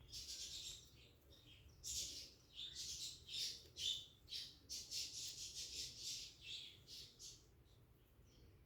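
Cockatiels calling: a rapid run of short, raspy chirps and squawks with a brief pause about a second in, stopping near the end.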